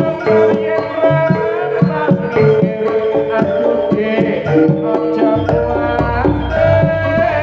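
Javanese jaranan gamelan music: kendang hand drums beat steadily under sustained pitched melodic notes. A deep low tone enters about five seconds in.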